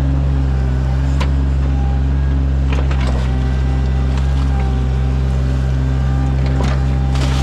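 Sany mini excavator's diesel engine running steadily while digging, with a few sharp knocks scattered through.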